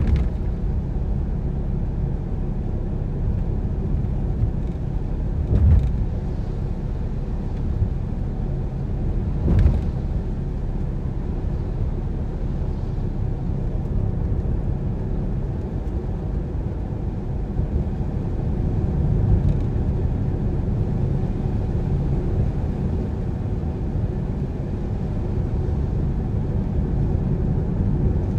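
A car driving along with a steady low road and engine rumble, and two brief thumps, about six and ten seconds in.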